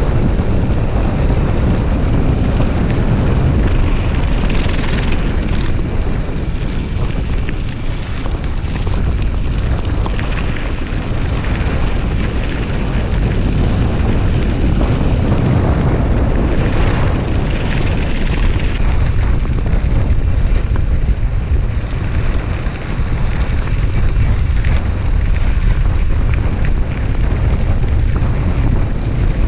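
Loud, steady wind noise rushing over the microphone of a camera riding along on a moving bicycle, a heavy low rumble with no pauses.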